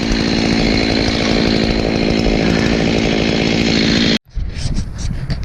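Two-stroke chainsaw running steadily at full throttle, cutting off abruptly about four seconds in; lower rumble and wind noise follow.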